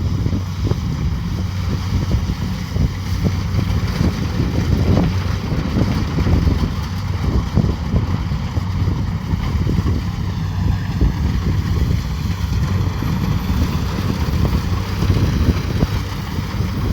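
Kubota DC70 Pro combine harvester's diesel engine running steadily with a low hum, under a dense, continuous rattle of machinery.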